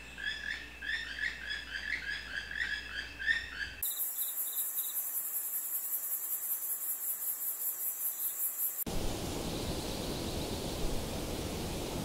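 A small bird calling in a rapid series of short downslurred chirps, about three a second. About four seconds in the sound cuts abruptly to a very high, pulsing insect trill, and near the end to a steady hiss.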